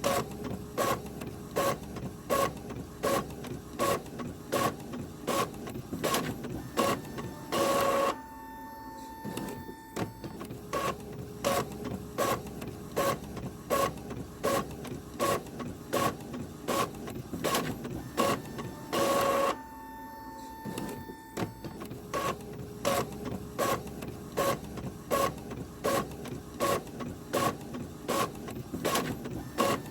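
Printer running and feeding paper: a steady train of mechanical clicks, about two a second, over a faint hum. About every eleven seconds there is a longer, louder stretch, heard about eight seconds in, again around nineteen seconds, and near the end.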